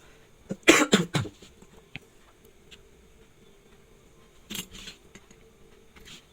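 Quick clicks and light rattles of small hard objects being handled on a workbench. There is a loud cluster about a second in, a smaller one near five seconds and a faint one near the end.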